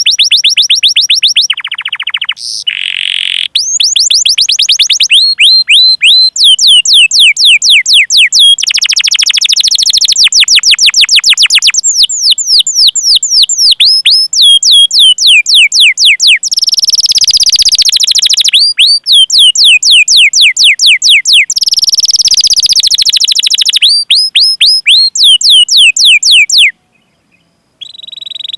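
Domestic canary singing: long trains of rapid, repeated high 'cuit cuit' chirps, each sweeping downward, several a second, alternating with fast rolling trills. The song breaks off briefly near the end.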